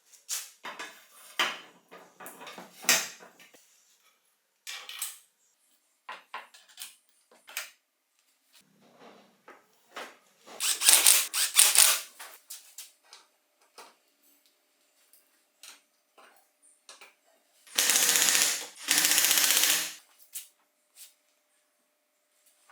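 Hand tools and metal bicycle parts being handled: scattered clicks and knocks. A loud noisy burst comes about eleven seconds in, and two more bursts of about a second each come near the end.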